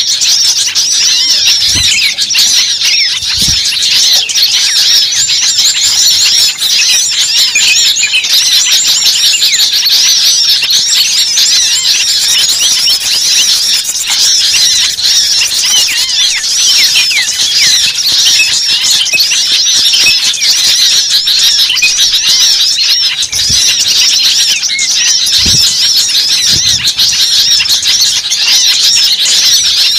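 A dense chorus of many birds calling at once, a continuous chatter of overlapping high chirps and squeals, with a few brief low thumps.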